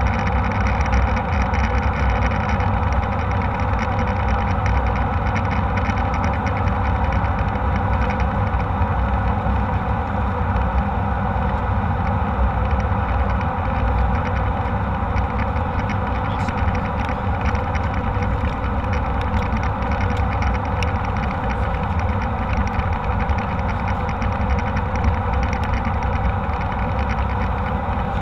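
Steady drone of jet engines and rushing air inside an airliner cabin, a deep rumble that holds level throughout.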